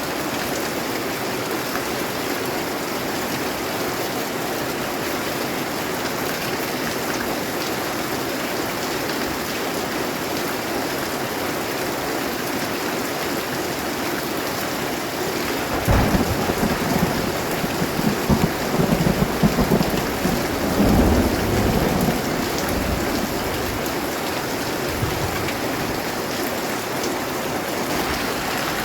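Steady rain falling, with thunder breaking suddenly about halfway through and rolling on in a low, uneven rumble for several seconds before it fades back into the rain.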